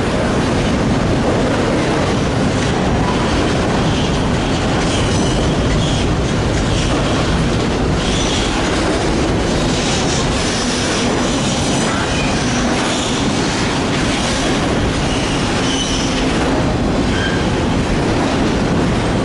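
A train rolling past with a steady, loud rumble of wheels on rail. Brief high wheel squeals come and go throughout.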